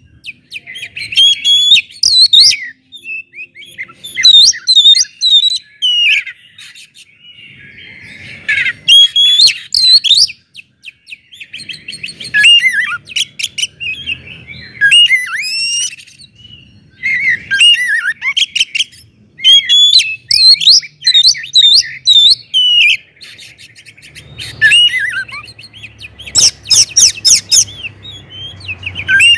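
Oriental magpie-robin (kacer) singing loudly in its open, full-voiced 'ngeplong' style: varied whistled and sweeping phrases of a second or two with short pauses between. Near the end comes a fast run of sharp repeated notes.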